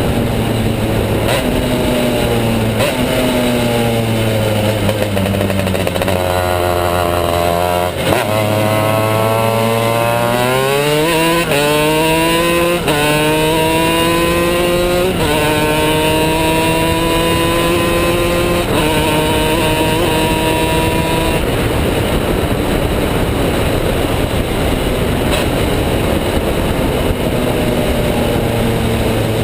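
Two-stroke shifter superkart engine slowing with falling revs, then accelerating hard up through the gears: the pitch climbs and drops sharply at each of about five upshifts, then settles into a steady high-speed run.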